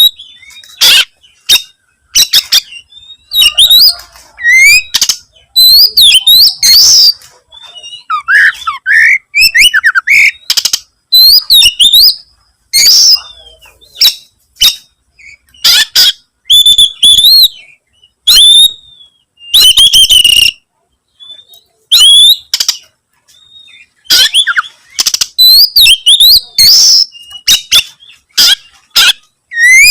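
Oriental magpie-robin (kacer) singing loudly in full song: bursts of whistled notes that swoop up and down, mixed with sharp harsh notes, with short pauses between phrases. This is the vigorous challenge song that keepers call 'gacor', given by a bird seeking a rival.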